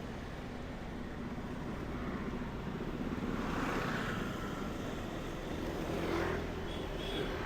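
Street traffic heard from a bike in the road: motorbikes and cars running close by, swelling as vehicles pass about halfway through and again near the end, over a steady low rumble.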